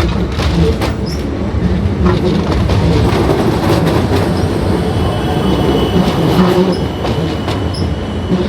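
Electric commuter train pulling out of the station, its wheels rumbling and clicking over rail joints and points, with a thin wheel squeal partway through.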